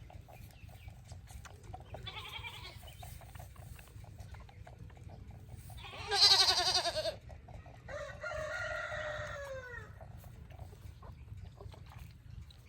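Nigerian dwarf goats bleating: a faint bleat about two seconds in and a loud, wavering one about six seconds in. A rooster then crows, one long call that falls in pitch at its end.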